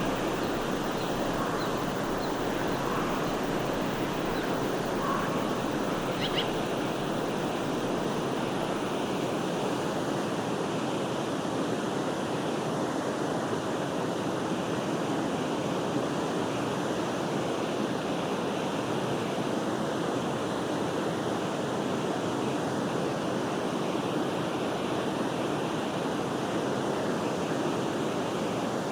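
Forest stream water flowing steadily in an even rush, with a few faint bird chirps in the first six seconds.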